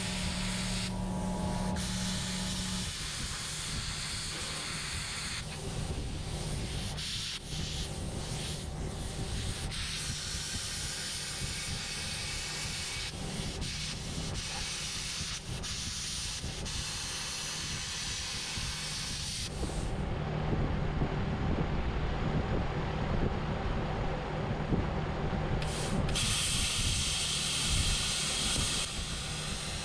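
Metal cutting and welding on the flail mower's steel mounting bracket: a dense hissing noise that stops and changes several times. Its high end drops away for a few seconds about twenty seconds in.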